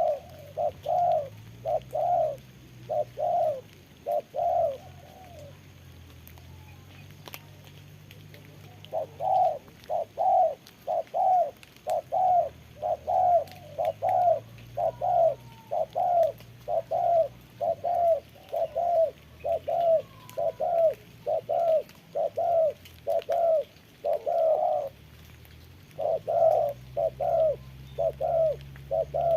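Spotted doves cooing, a fast run of short, evenly spaced coos at about two a second. The calls stop about five seconds in, start again near nine seconds and run on with a brief break near the end.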